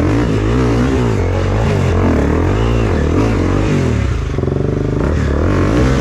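Trail motorbike engine revving up and down over and over, its pitch rising and falling in quick swells.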